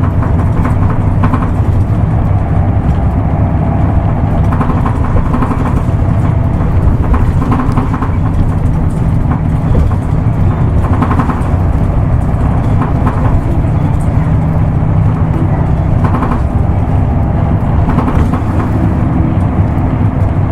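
Isuzu Erga Mio diesel bus running steadily on the road, its engine droning evenly.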